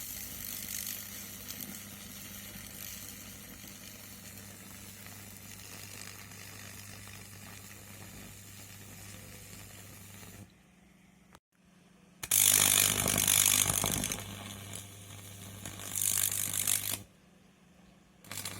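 Microwave oven transformer humming while its high-voltage output crackles and sizzles as it burns material. It cuts off about ten seconds in, comes back on about two seconds later with much louder crackling for about five seconds, then switches off and starts again near the end.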